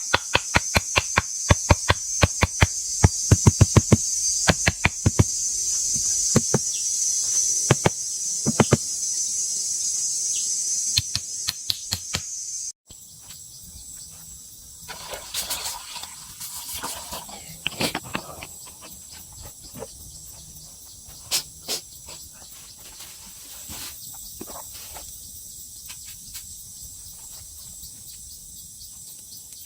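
Forest insects buzzing high and steady, with a fast run of sharp knocks over the first few seconds. The sound cuts off abruptly about 13 seconds in, and the buzz goes on more quietly with scattered faint clicks and rustles.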